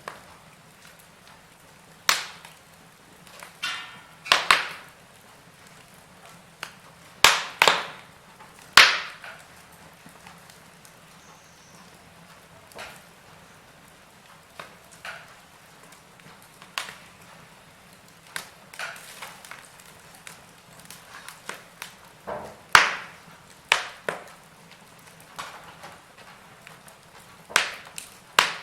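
Wood fire in a fireplace crackling, with sharp pops at irregular intervals of a second or several seconds over a low steady hiss.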